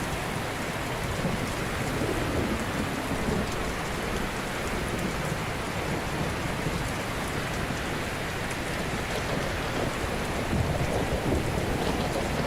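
Ocean waves washing onto a shore: a steady rush of surf that swells louder and deeper about two seconds in and again near the end.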